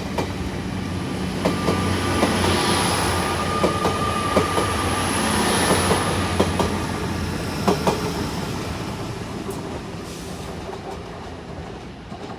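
Two coupled GWR Class 802 IET units running past and pulling away, wheels clicking over rail joints with a faint squeal. The sound builds to about halfway, then fades as the train draws off.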